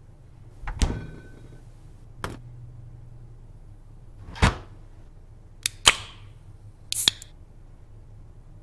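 Handling sounds at a refrigerator: a handful of separate sharp clicks and knocks as the fridge is opened and a drink can is taken out, the sharpest pair of clicks about six seconds in, followed by a short hiss.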